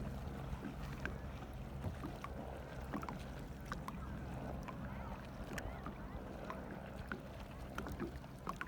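Small water sounds of a kayak on a lake: lapping and dripping against the hull, with many scattered little splashes over a steady low wind rumble on the microphone.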